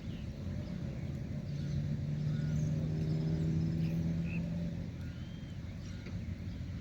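A motor passing by: a steady engine hum that grows louder, peaks midway and fades away, with birds chirping.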